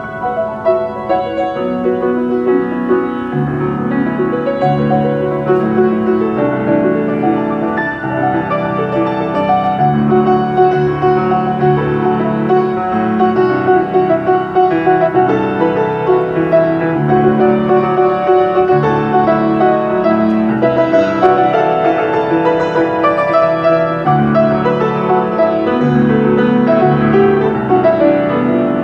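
Solo piano improvisation in a jazz pianist's style: a steady, unbroken stream of chords and melody notes.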